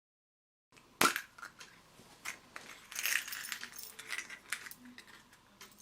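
A sharp knock, then a run of irregular clicks and rattles of small hard objects being handled, fading to faint ticks near the end.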